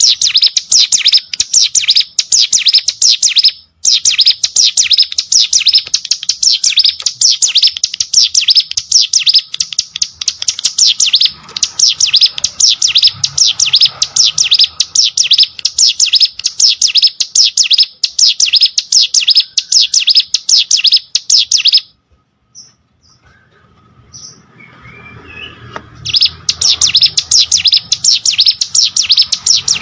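Ciblek sawah, a small prinia, singing a fast, continuous run of high, sharp chirps. The song stops about 22 seconds in, leaving a few faint notes, and starts again loudly about four seconds later.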